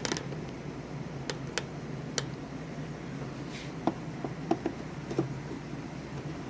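A few sharp clicks and several softer knocks of tools and small parts being handled during bench work on an amplifier, over a steady low hum.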